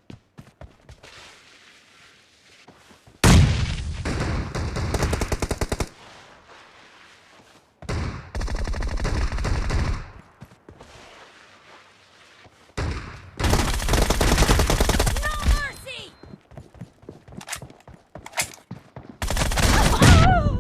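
Video-game automatic gunfire: four bursts of rapid shots, each two to three seconds long, with short pauses between them.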